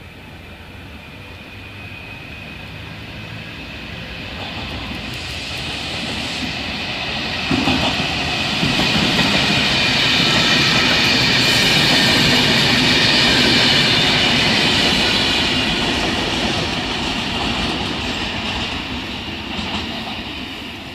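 Electric double-deck passenger train passing close by: the rumble of wheels on rails builds over about ten seconds, is loudest as the carriages go past, and fades as the train moves away.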